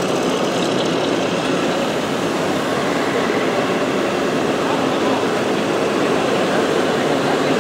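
Steady, dense din of many indistinct voices mixed with a continuous rumbling noise.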